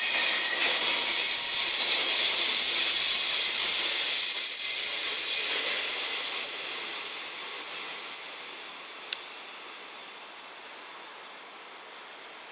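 Koki container flatcars of a freight train rolling past on the rails: a steady, high rushing of wheels on track that fades from about halfway through as the last wagons go by and recede.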